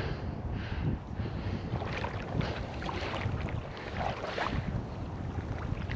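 Wind buffeting the microphone over the rush of a flowing river, with brief irregular rustles and splashes.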